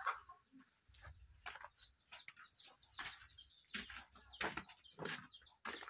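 Birds chirping: faint, short, sharp calls repeating irregularly, many of them quick downward sweeps.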